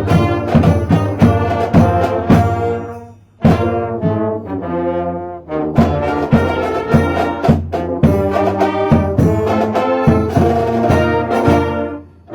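High school marching band playing a holiday carol, brass chords over a steady beat of drum hits. The music breaks off briefly about three seconds in, comes back with a long held brass chord, then drops away again near the end.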